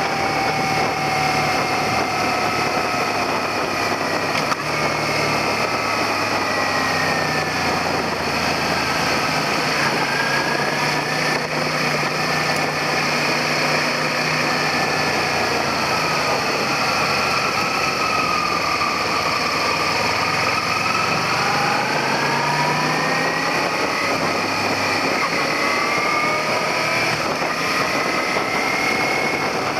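Suzuki SV400 V-twin engine running under way over steady wind and road noise. The engine pitch falls slowly for several seconds as the bike slows, then climbs again as it speeds back up.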